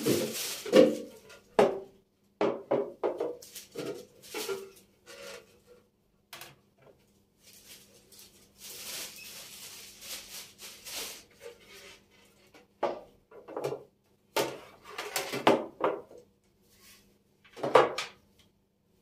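Kitchen storage containers and cupboard fittings being handled: a string of knocks and clatters as things are picked up and set down, with a soft, even hiss for a couple of seconds about halfway through.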